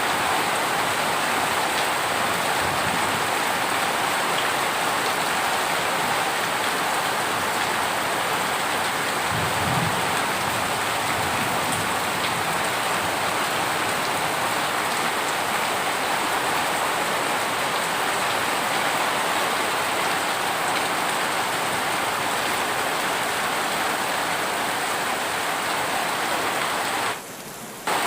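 Steady heavy rain, an even unbroken hiss. It drops briefly in level a second before the end.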